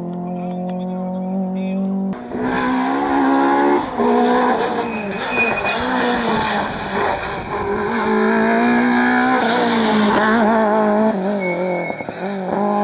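Rally car engine at high revs, holding a steady note and then, about two seconds in, turning suddenly louder and rougher, its pitch rising and falling with throttle and gear changes. Tyres squeal briefly a couple of times.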